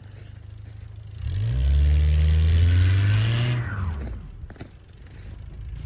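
A motor vehicle's engine revs up about a second in, holds high for a couple of seconds, then drops back down.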